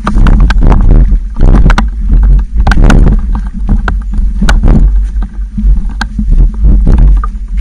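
Wind buffeting the microphone with a constant low rumble, over irregular rattles and sharp knocks, typical of a bicycle jolting over a rough forest trail.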